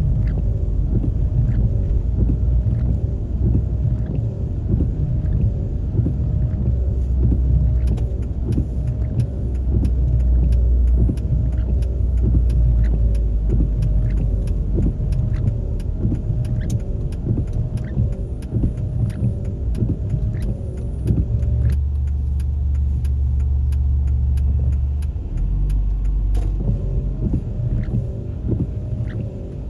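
Road vehicle on the move: a steady low rumble of engine and tyre noise, with many small sharp ticks through most of the stretch.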